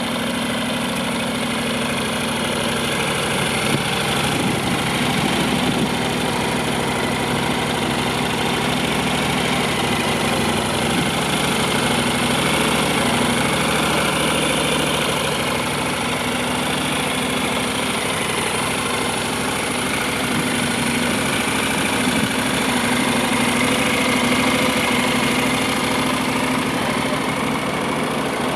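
Honda NC750S motorcycle's parallel-twin engine idling steadily.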